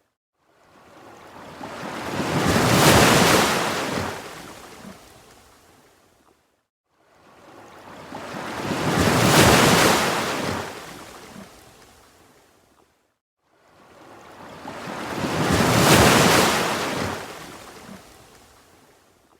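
Ocean waves washing in, three in a very even rhythm about six and a half seconds apart. Each wave builds to a hiss over a couple of seconds, then fades away, with brief near-silence between waves.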